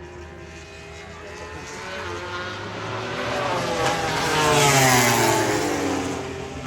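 MotoGP racing motorcycle passing at speed: its engine note swells to its loudest about five seconds in and drops in pitch as it goes by, then fades.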